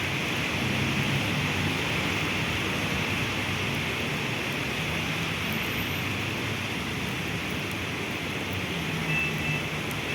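Heavy rain falling steadily, a dense even hiss, over a low rumble of city traffic. A couple of short high beeps sound near the end.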